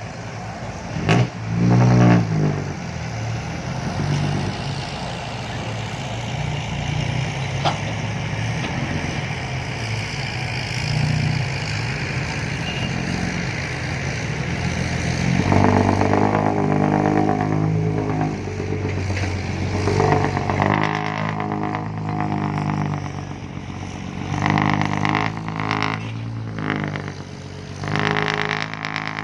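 Diesel dump truck with a loud aftermarket exhaust pulling hard under load, its engine note rising and falling and getting louder and fuller about halfway through.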